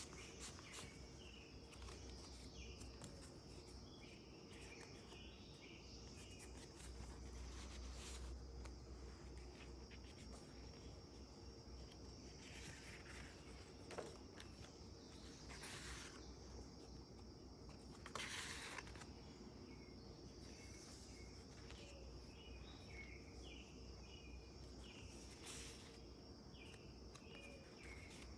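Faint, near-silent ambience: small birds chirping and a steady high insect-like whine, with a few soft rustles of journal pages being handled and turned.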